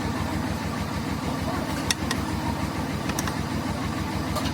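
An engine running steadily at idle, a fast even low throb, with a few sharp metallic clicks about two, three and four seconds in.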